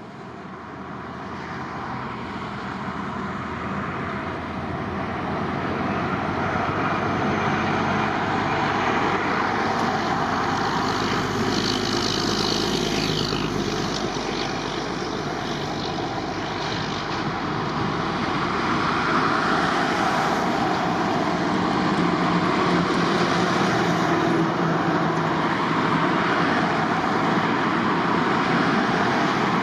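Dassault Falcon 7X business jet's three turbofan engines, a steady rushing jet noise with a faint whine that builds over the first several seconds and then stays loud, as the jet comes in to land.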